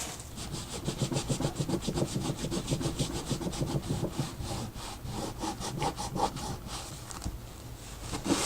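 Rapid back-and-forth scrubbing strokes on the artwork's surface, several a second and fairly even. They thin out after about seven seconds, then a louder scrape comes right at the end.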